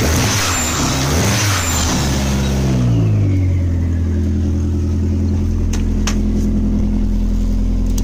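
Dodge SRT-4 turbocharged 2.4-litre four-cylinder engine running through a 3-inch side-exit exhaust. It is revved up and down a few times in the first three seconds, then settles into a steady idle, with a couple of light clicks about six seconds in.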